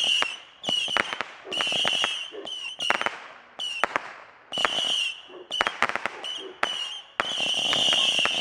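Consumer firework going off in repeated spurts, each a high whistling hiss with sharp crackles and pops, about a second apart. The spurts run together into one longer whistling burst about seven seconds in.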